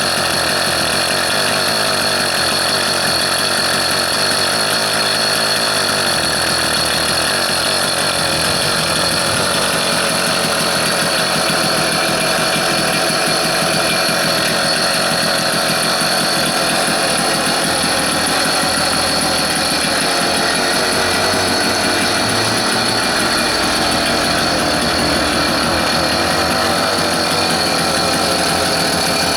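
A vehicle engine running steadily, warm after a 200 km drive, with a steady high whine over it.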